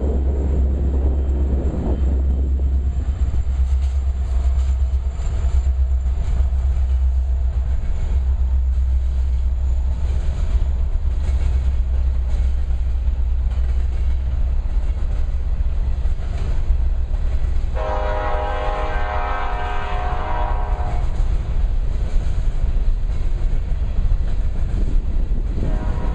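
Freight train rolling past with wheels clicking over the rail joints, and a diesel locomotive's horn sounding for about three seconds partway through, then again near the end.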